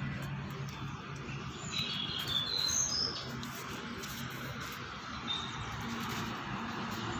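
A bird chirping: a quick run of short high chirps about two to three seconds in, and one more a little after five seconds, over a steady background hiss.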